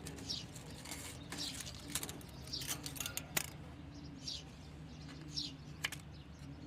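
Birds calling: short, high chirps that fall in pitch repeat about once a second over a low, repeating cooing, with a few sharp clicks in between.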